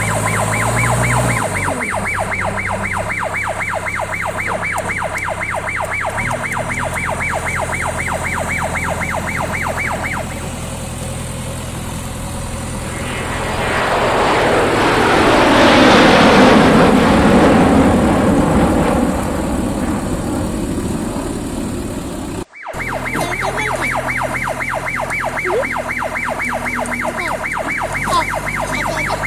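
A JCB 3DX backhoe loader's diesel engine running, with a steady low hum and a fast, even pulsing over it. About halfway through, a broad rushing noise swells up, peaks and fades away. Near the end the pulsing comes back after a sudden cut.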